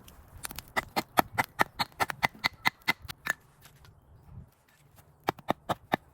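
Rapid sharp knocks on a hard log of firewood, about four or five a second, in two runs with a short pause between. This is an attempt to split firewood that is too hard to split.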